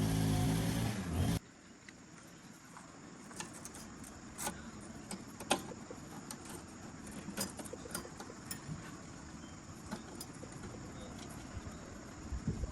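Engine running steadily, cutting off abruptly about a second in; then scattered light clinks and taps over a quiet background.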